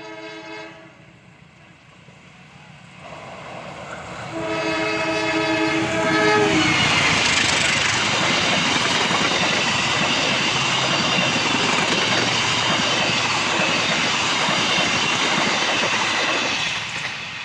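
Locomotive horn sounds a short blast, then a longer blast of about two seconds, and the train then runs past close by, loud with the rumble and clatter of wheels on the rails for about ten seconds, fading near the end.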